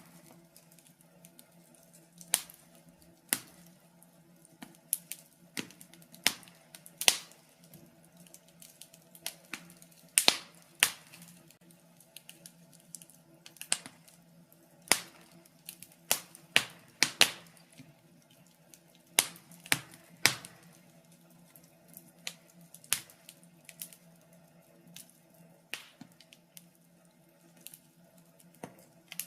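Wood fire crackling in a fireplace: irregular sharp pops and snaps, one or two a second at uneven spacing, over a faint steady low hum.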